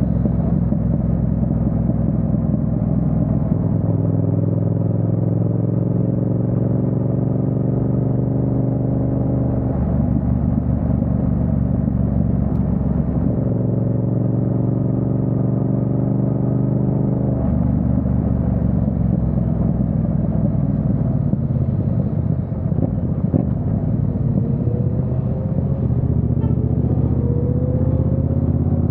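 Yamaha MT-07's parallel-twin engine under way, rising in pitch as it pulls through the gears and dropping back at upshifts about 10 and 17 seconds in, then pulling up again near the end.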